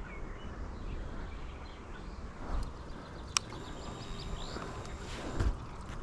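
Outdoor quiet with the motorcycle engine off: a low wind rumble on the microphone, a few short bird chirps midway, one sharp click and a couple of soft thumps.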